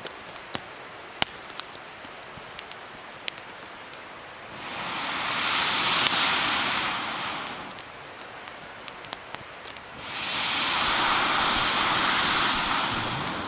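Wood fire crackling with scattered sharp pops, and twice a rushing hiss that swells up and dies away over about three seconds each time.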